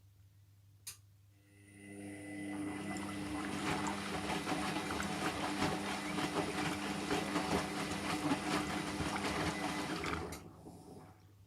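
Hotpoint washing machine moving water: a click about a second in, then a steady pump-like hum over rushing, gurgling water that builds up, runs for about eight seconds and stops shortly before the end.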